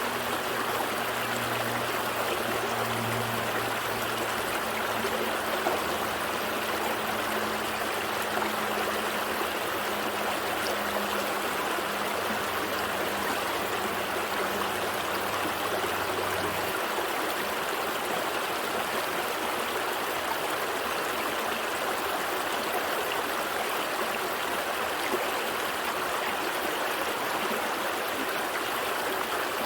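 Gentle stream flowing steadily, an even rushing and trickling of water. Under it a faint low hum holds for the first half and cuts off abruptly a little past halfway.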